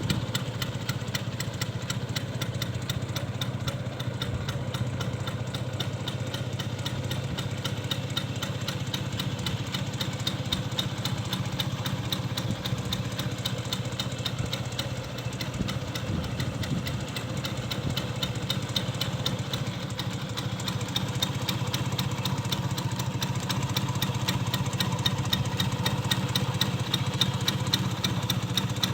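Vespa PX 150's two-stroke single-cylinder engine idling steadily through a hollowed-out stock muffler, a little louder over the last several seconds.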